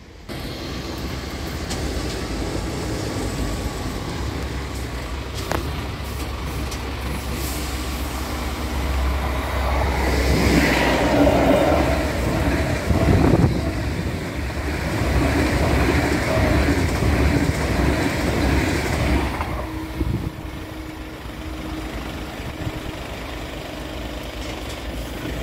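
A train passing the level crossing: a low rumble that builds over about ten seconds, is loudest for roughly ten seconds in the middle, then dies away, leaving a steady hum.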